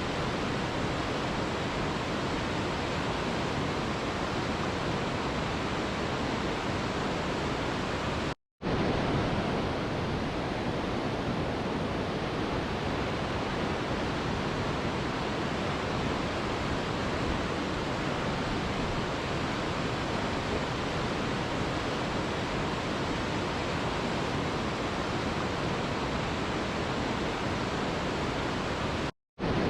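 Mountain river rushing, a steady, even roar of water. The sound cuts out to silence for a fraction of a second twice, about eight seconds in and again near the end.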